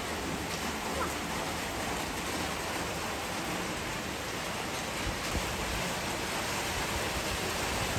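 Steady rain falling on a tiled terrace and garden plants, an even hiss that does not change.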